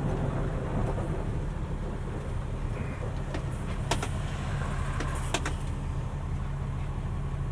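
Mercedes-Benz Unimog U500's turbo-diesel engine running steadily at low revs, heard from inside the cab, with a couple of sharp clicks about four and five and a half seconds in.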